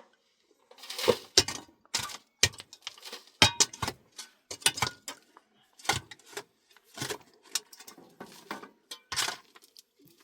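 Irregular clinks and knocks of small hard objects being handled, about two a second.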